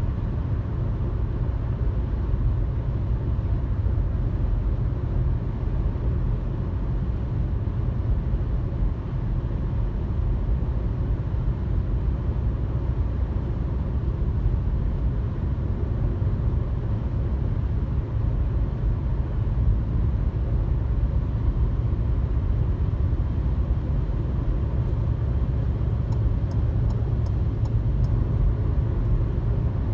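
Steady road noise of a car cruising on a highway: an even, low tyre and engine drone that does not change. A few faint high ticks sound near the end.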